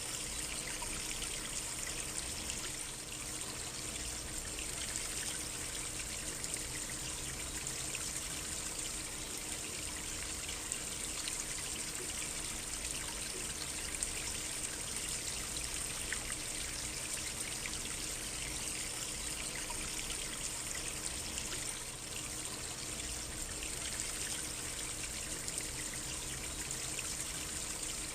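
A small stream or creek trickling steadily, an even running-water sound with no breaks.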